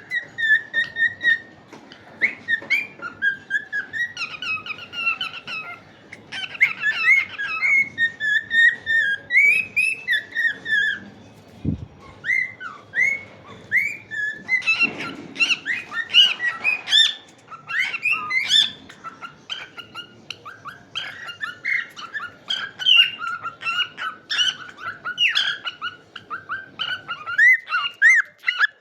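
Cockatiels chirping and whistling: a steady run of short, high calls, many sliding up or down in pitch.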